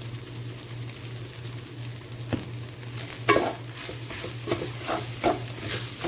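Shredded chicken frying and sizzling in a pan while it is stirred with a utensil, with several sharp scrapes against the pan in the second half. A steady low hum runs underneath.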